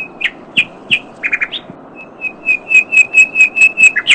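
A songbird singing: a few separate high chirps, then a quick run of repeated chirps, about six a second, growing louder and stopping just before the end.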